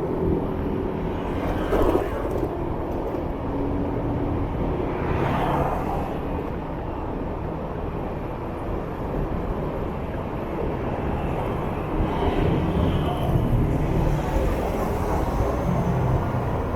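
City traffic heard from a moving motorbike: steady engine and road noise with a low rumble, swelling briefly about two and five seconds in as vehicles pass close by.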